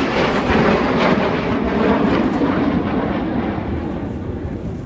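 Jet noise from Red Arrows BAE Hawk T1 aircraft passing overhead: a loud rushing rumble that slowly fades.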